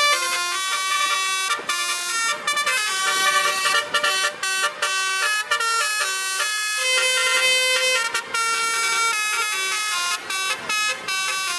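Basuri musical truck horn playing a melody: several horn tones sound together and step from note to note, with short breaks between phrases.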